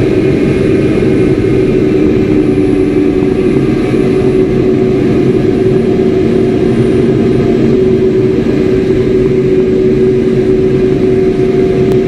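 Aircraft engine running at a constant, steady drone, heard close up from on board the aircraft.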